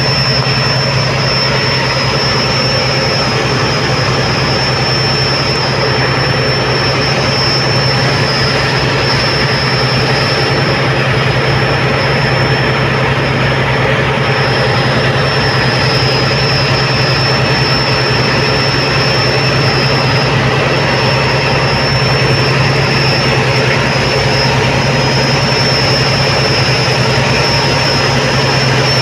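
Tugboat's diesel engine running with a steady, loud drone, with a thin steady high whine over it and a rushing noise.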